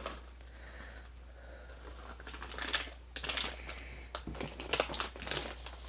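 Crunching of hard, corn-nut-like garlic corn snack balls being chewed, a run of irregular sharp crunches starting about two seconds in.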